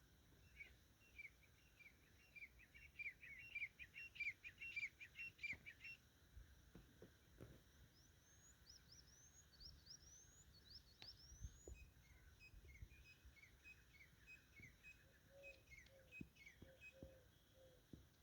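Faint forest birdsong from several birds: a fast series of chirps in the first few seconds, then a run of short rising whistles, more chirping, and a low repeated note near the end.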